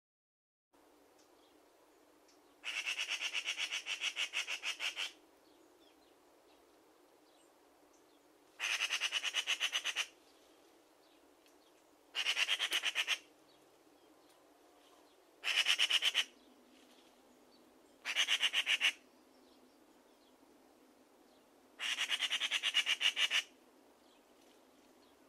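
A bird giving six bursts of fast rattling calls, each made of many rapid notes and lasting one to two and a half seconds, with pauses of a few seconds between them.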